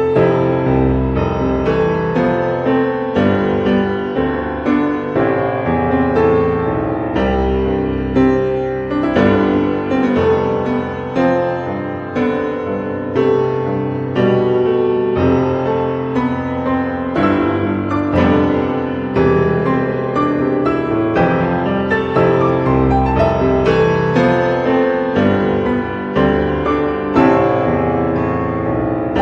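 Background piano music: a gentle instrumental piece with notes struck every half second or so.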